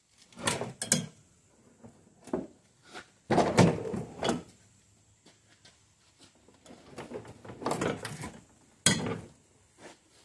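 Irregular clunks, scrapes and rattles of metal hardware being handled, in a string of short bursts, loudest about three seconds in and again near the end.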